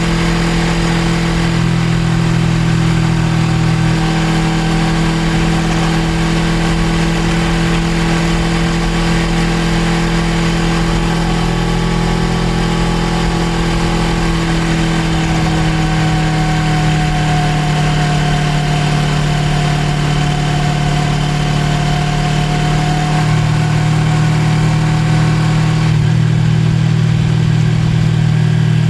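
Suzuki GSX250R's parallel-twin engine running at a steady cruise, its note dipping slightly about halfway through and shifting again in the last few seconds, over a steady rush of wind and road noise.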